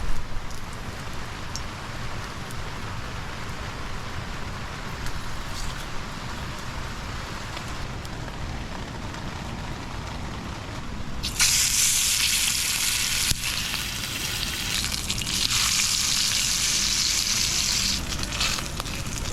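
Low steady background noise with a few faint crackles. About eleven seconds in, a loud sizzling hiss starts suddenly and runs for several seconds, easing off near the end.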